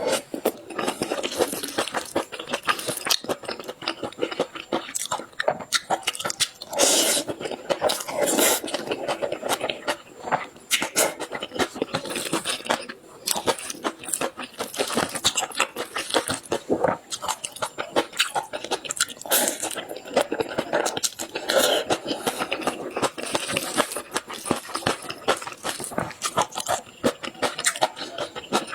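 A person chewing and biting food close to the microphone, a continuous run of small crunches, crackles and mouth clicks with uneven pauses.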